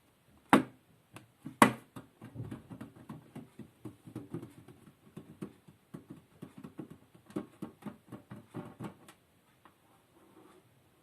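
Close-up tapping on an object: two sharp taps early on, then quick, irregular light tapping or scratching that stops about nine seconds in.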